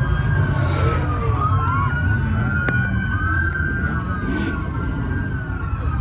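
Several police car sirens wailing at once, their overlapping tones rising and falling, over a steady low rumble of engines.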